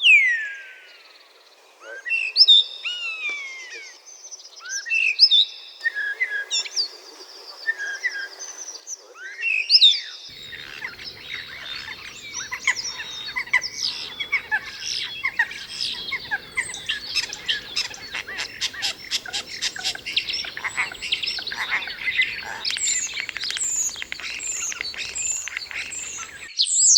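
Common starling singing: a string of clear whistles sliding downward in pitch, then a dense, busy stretch of chattering warbles. About halfway through, a fast run of clicks and rattles breaks in, typical of the starling's mimicking song.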